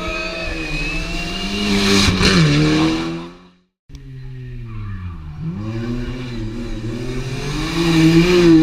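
Rally car engines at full throttle, the pitch climbing and falling with the revs. The sound cuts off abruptly about three and a half seconds in, then a second car comes in, its revs dipping and climbing again and reaching their loudest near the end.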